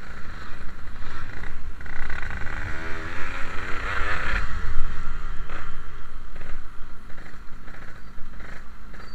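Yamaha RX-King 135 cc two-stroke single-cylinder motorcycle engine running on the road, with a heavy wind rumble on the microphone. About two seconds in the engine note climbs, then falls away again by about six seconds.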